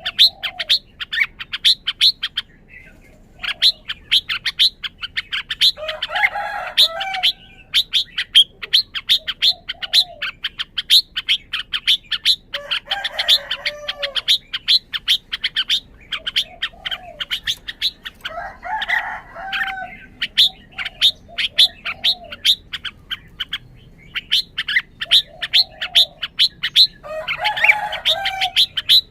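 Red-whiskered bulbul calling: a fast run of sharp chirps, about five or six a second, broken by a fuller warbled song phrase four times, roughly every six to seven seconds.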